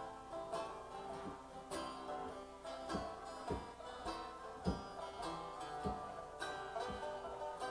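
Live acoustic music with no singing: plucked string instruments picking an instrumental passage, with a few stronger low thumps among the notes.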